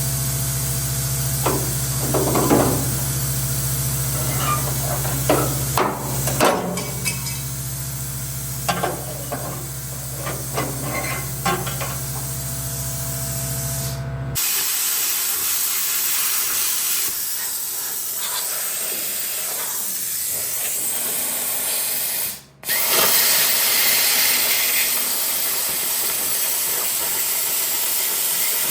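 Steady hissing from shop metalwork on an old truck's sheet-steel bed, with a low hum and scattered clicks in the first half. The hum stops abruptly about halfway through, and the sound drops out briefly near the end.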